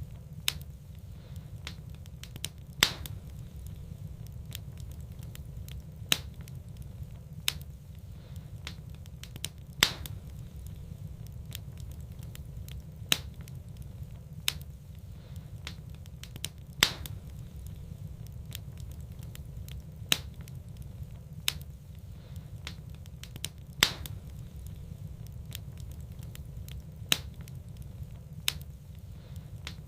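Wood fire burning in a fireplace, crackling with sharp, irregular pops every second or two over a steady low rumble.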